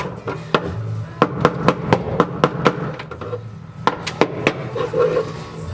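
Irregular sharp strikes, about two or three a second, of a chisel on a car's steel floor pan, chipping off old tar sound-deadening made brittle with dry ice. Background music with a steady bass line runs underneath.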